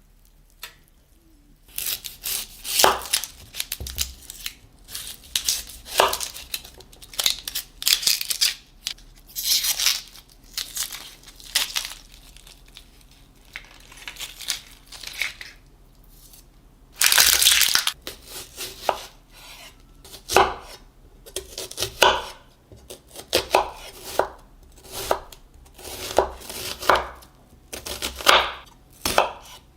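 Knife cutting food on a cutting board in irregular strokes of varying length, with one longer slicing sound about halfway through.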